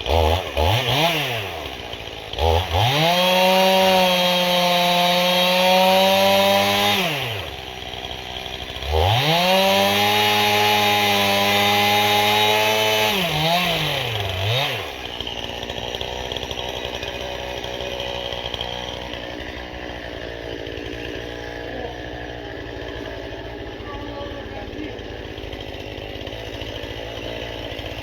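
Stihl chainsaw with a freshly sharpened chain cutting ash firewood: the engine blips, then runs at full throttle for about four to five seconds twice with a short drop between, revs once more briefly, and settles to a steady idle for the second half.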